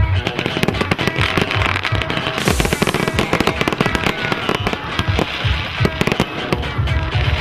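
Crack-a-jack fireworks crackling in a dense run of rapid pops, with a brief hissing burst about two and a half seconds in. Background music with a steady bass beat plays underneath.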